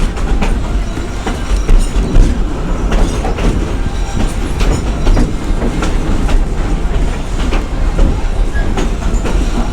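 Narrow-gauge steam train's passenger cars rolling along the track: a steady low rumble with the clickety-clack of wheels over rail joints.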